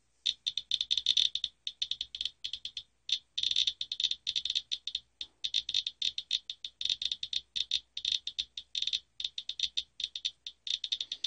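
Radiation Alert Inspector Geiger counter clicking fast and irregularly, a dense stream of short high ticks. The high count rate comes from radioactive particles caught on a used furnace filter, which the owner assumes is just radon.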